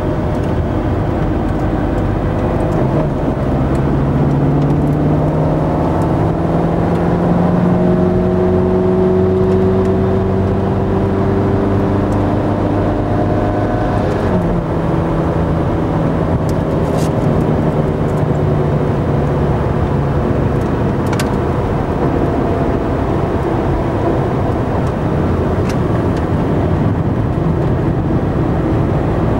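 Ferrari F430's V8 heard from inside the cabin at racing speed, its pitch climbing slowly under acceleration, with one sudden drop in pitch at an upshift about fourteen seconds in before it pulls again.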